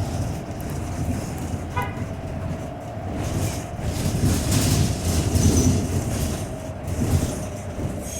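Interior ride noise of a 2018 New Flyer Xcelsior XT40 electric trolleybus with Vossloh Kiepe drive: low rumble from the road under a steady high whine from the traction drive, on a bus noted for its weird sound. A short beep sounds about two seconds in.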